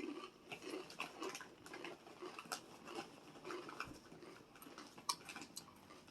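Close-miked chewing of food: soft, irregular mouth sounds with light crunches and wet clicks, fairly faint.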